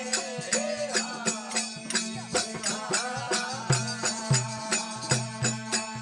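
Rajasthani desi bhajan music in an instrumental passage: a steady drone under a wavering melody, with percussion striking in a steady beat.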